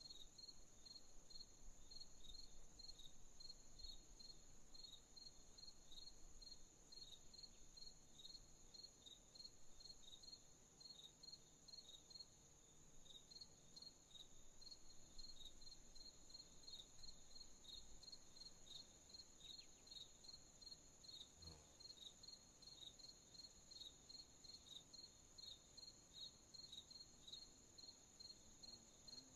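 Crickets chirping at night, faint: a steady high insect trill under regular short chirps at about three a second.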